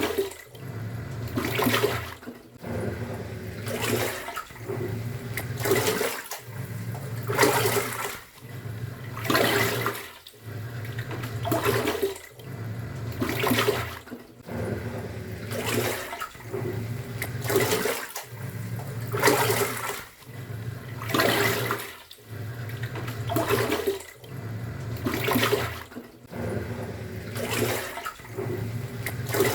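Top-loading pulsator washing machine agitating a load in water. The motor hum stops briefly about every two seconds as the drive reverses, and each stroke brings a swish and slosh of churning water.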